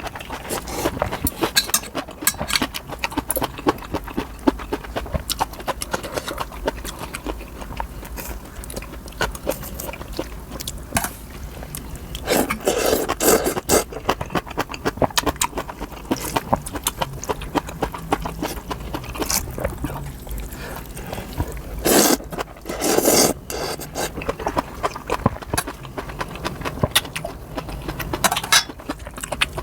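Close-up eating sounds of noodle soup: steady wet chewing and mouth clicks, with a loud noodle slurp about halfway through and two more close together later.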